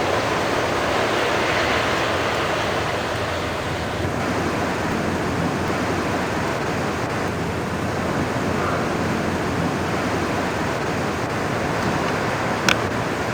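Strong wind gusting steadily, a continuous rushing noise from the wind and from wind striking the camcorder microphone. A single short sharp click comes near the end.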